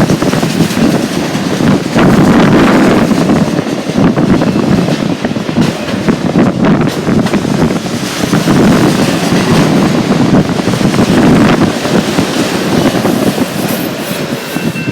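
Strong wind buffeting the microphone in uneven gusts over the rumble of a passing freight train.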